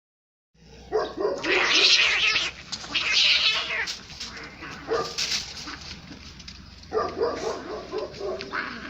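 Cats caterwauling in a fight: loud screeching yowls, heaviest in the first few seconds, then further yowls after a short lull.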